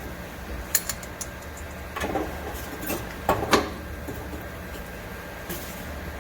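Hand tools clicking and knocking against metal in a few scattered sharp strikes and short scrapes, working on a car's rear shock absorber mounting.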